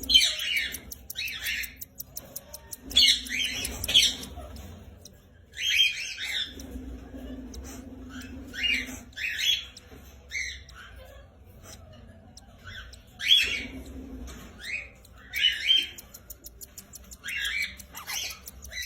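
Cockatiels squawking: short, harsh calls, often in quick pairs, repeated every second or two.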